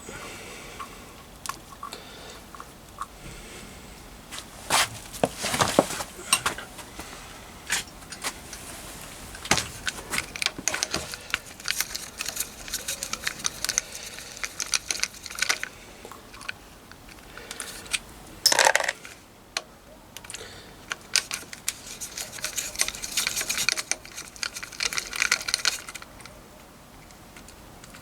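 Metal hand tools and small steel engine parts clicking and clinking against each other during dismantling work, in uneven clusters, with one louder clank about two-thirds of the way through.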